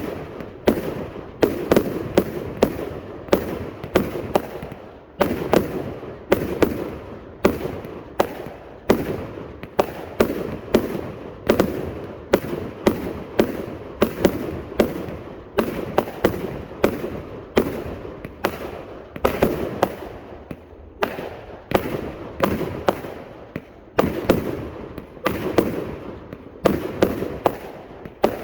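A 400-shot 'Slick Willy Salute' firework cake firing a steady string of sharp reports, about two a second, each trailing off before the next.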